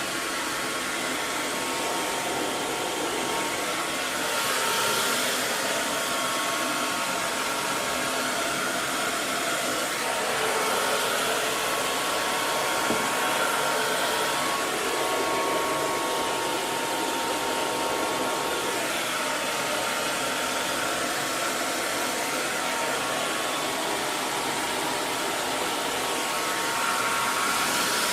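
Electric hair dryer running steadily: a continuous rush of blown air with a faint motor whine, swelling slightly in level now and then.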